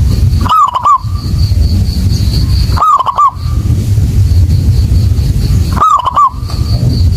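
Zebra dove (perkutut) cooing: three short phrases about three seconds apart, each a rising-and-falling coo followed by quick clipped notes. A loud low rumble fills the gaps between the calls.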